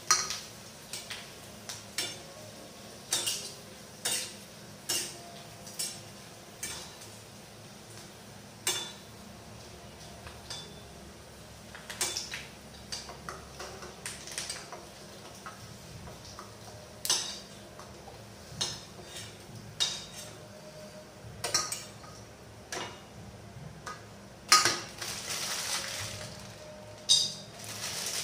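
Metal kitchen utensils and pots clinking and clattering, in irregular sharp knocks about one a second, with a brief hiss near the end.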